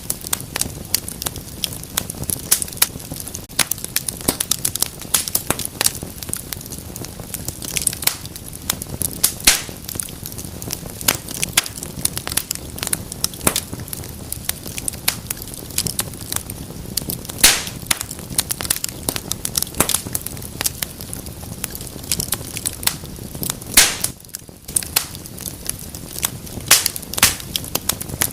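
A fireplace fire crackling, with many irregular sharp crackles over a low steady rumble of the flames.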